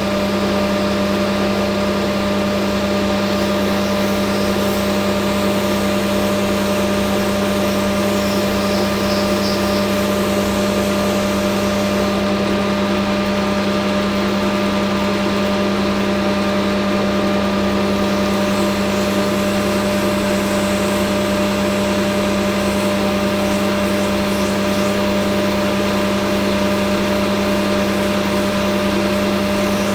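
Hafco AL960B metal lathe running steadily at a constant speed, its motor and gearing giving an unbroken hum.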